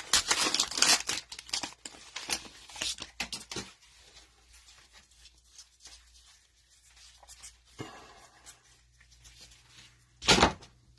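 Cellophane wrapper of a trading-card cello pack being torn open and crinkled, loud and crackly for about the first four seconds, then quieter handling with one sharp crackle near the end.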